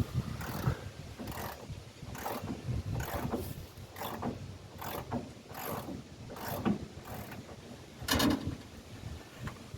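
Hand ratchet wrench clicking in repeated strokes, about one stroke every half to one second, as bolts holding a pickup bed are backed out. A louder, longer clank comes a little past eight seconds in.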